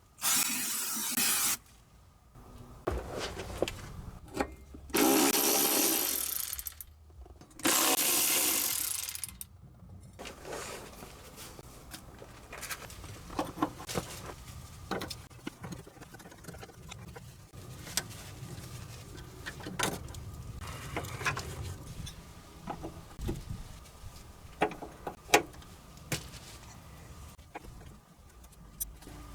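A power tool runs in three bursts of a second or two each in the first ten seconds. Scattered clicks and knocks of tools working on metal parts follow.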